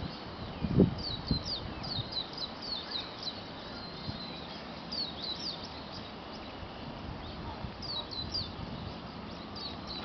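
Small birds chirping in clusters of quick, high, down-slurred notes, coming in short bursts every second or two over a steady outdoor hiss. A low thump about a second in is the loudest moment.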